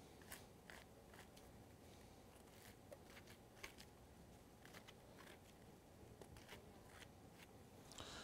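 Faint, scattered scrapes and small clicks as the gills are scraped out of portobello mushroom caps.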